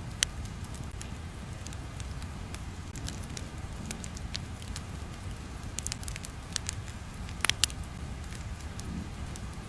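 Ambient crackling: irregular sharp pops and crackles over a steady low rumble, with a small cluster of louder pops near the end.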